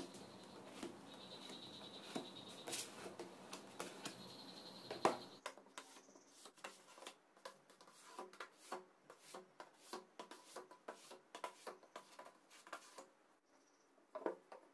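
Light, irregular clicks and taps over a faint steady hum and thin high whine; the hum and whine stop about five seconds in, and the small clicks and taps go on after that.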